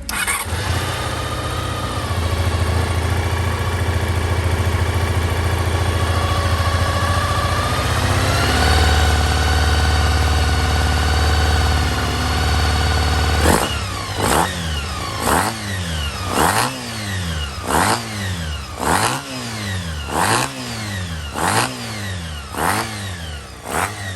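Honda RVF400 (NC35) V4 motorcycle engine running steadily, stepping up to a higher steady speed about eight seconds in, then revved again and again with the throttle blipped about once a second, each rev rising and dropping back.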